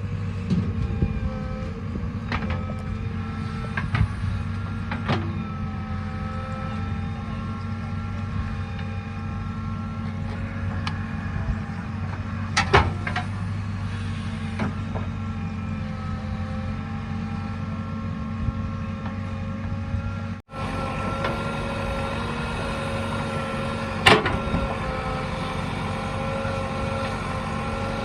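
Heavy diesel machinery running steadily, with a few sharp knocks; the sound drops out for a moment about two-thirds of the way through.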